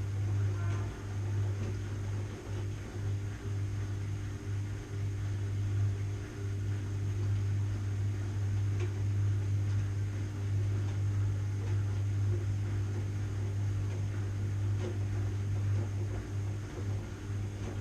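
Washing machine running steadily: a constant low motor hum with a faint high whine over it and a few light ticks.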